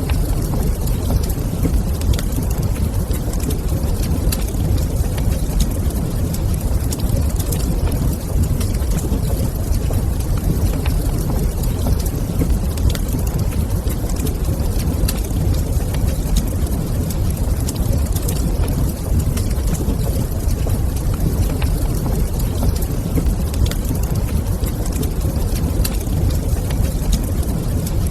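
Wood fire crackling in a fireplace, with frequent small sharp pops scattered over a steady low rumble.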